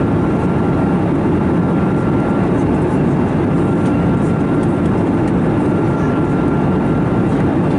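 Steady cabin noise inside an Airbus A321neo in flight: the even rush of airflow and its CFM LEAP-1A turbofan engines, with a faint steady high tone running through it.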